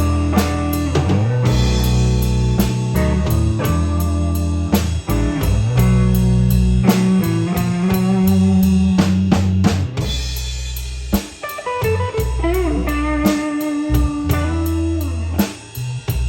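Live blues band playing an instrumental break: drum kit with snare and bass drum keeping a steady beat under bass and guitar, with some bent notes a little past the middle.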